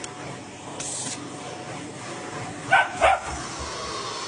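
A cockapoo barks twice in quick succession, about three seconds in, at a vacuum cleaner. The barks sit over a steady background noise, with a brief hiss about a second in.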